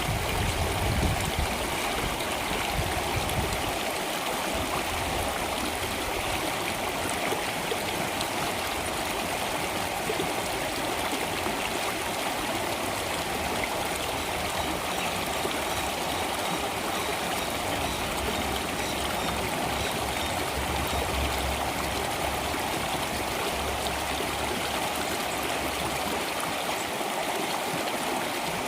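Stream water flowing steadily, an even rushing trickle with no breaks. A low rumble under it fades out over the first few seconds.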